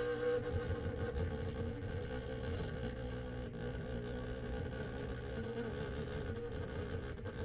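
A small electric motor running with a steady whirring hum, a constant mid tone over a low pulsing drone.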